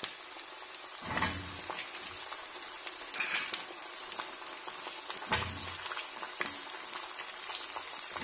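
Chopped green bell pepper going into hot mustard oil and onions in a metal kadhai, frying with a steady sizzle. Two dull thumps, about a second in and again just past five seconds, as the pieces land in the pan.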